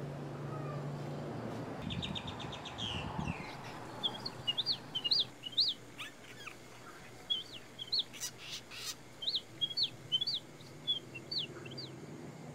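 A bird chirping: many short, sharp high chirps in quick runs, with a brief rapid trill about two seconds in.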